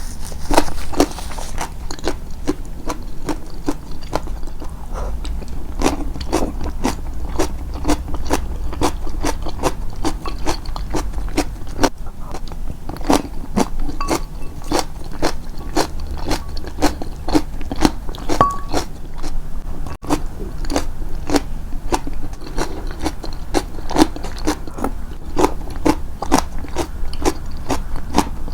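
Close-miked chewing with crisp crunching bites, a steady run of crunches a few times a second.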